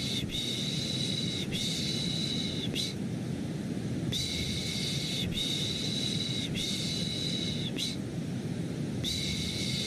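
Rhythmic 'shh' shushing in sets of three, each shush about a second long with a short break between, over a steady low white-noise rumble: a lulling sound to put a baby to sleep.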